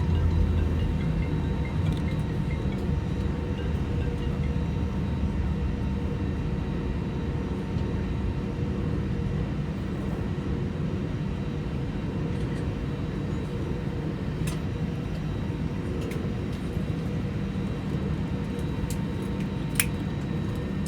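Airbus A319 cabin noise on the ground after landing, engines at idle: a steady low rumble with faint constant whining tones, and a sharp click near the end.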